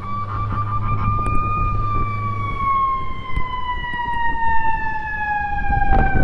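Fire truck siren, one long wail that rises to its peak about a second in and then slowly winds down in pitch. A low steady hum runs beneath it and stops about two and a half seconds in.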